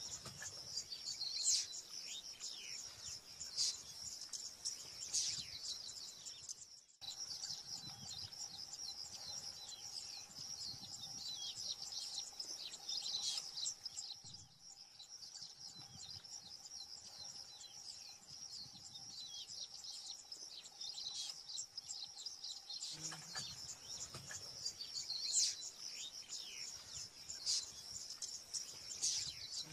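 Many small birds chirping and calling in a dense, continuous high-pitched chorus, broken off abruptly twice where the footage changes. A faint steady hum runs under the middle stretch.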